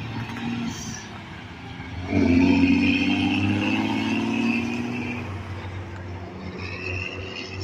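A heavy truck driving past. Its engine and tyre noise come in suddenly about two seconds in and slowly drop in pitch as it goes by, over steady traffic rumble.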